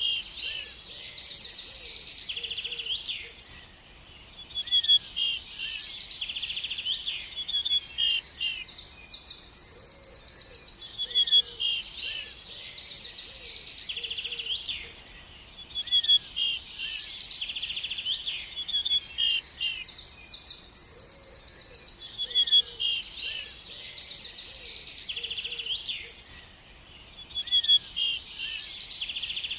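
Birds singing: a dense run of high chirps, trills and rapid twitters that dips into a brief lull about every eleven to twelve seconds before starting again.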